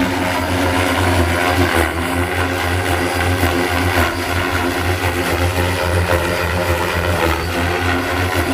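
Oxy 5 electric RC helicopter flying, its motor and main rotor giving a loud, steady whine and buzz.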